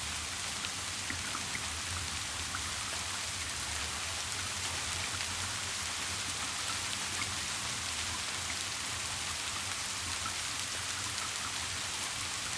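Steady rain: a dense, even hiss with small drop ticks scattered through it, over a low steady hum.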